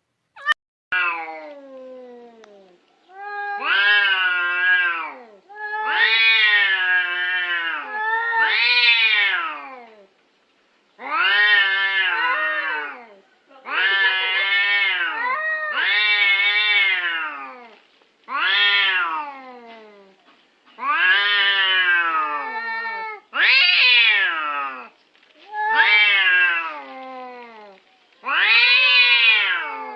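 A domestic cat giving a long series of drawn-out meows, about a dozen of them, each rising then falling in pitch, with a short click just before the first.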